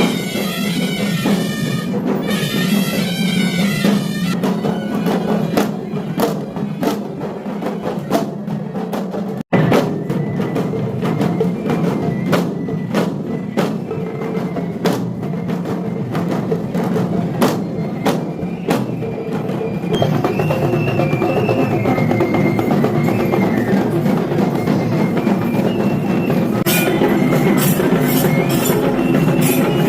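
Traditional Kandyan procession music: drums beating in quick strokes, with a high, wavering reed-pipe melody over them at the start and again in the last third. The sound cuts out for an instant about nine seconds in.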